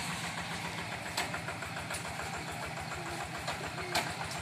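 Walk-behind rice-field tractor's single-cylinder diesel engine running steadily with a fast, even chugging, and a couple of sharp clicks about a second in and near the end.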